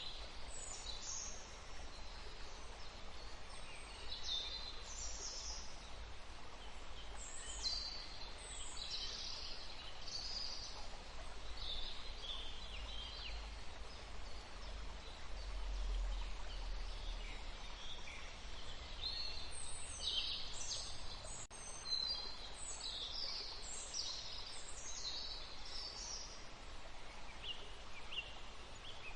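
Forest birds calling, many short high chirps and quick phrases coming in clusters, over a steady background hiss of the outdoors, with a brief low rumble about halfway through.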